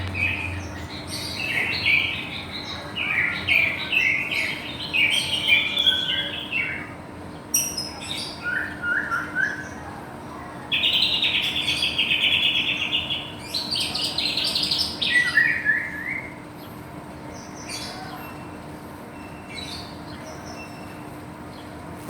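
White-rumped shama (murai batu, Medan type) singing a varied song of quick whistled and chirped phrases full of mimicked fill-ins. About eleven seconds in comes a dense, fast rattling trill, then a few more phrases, and the bird falls mostly quiet in the last several seconds. A faint steady hum lies under it.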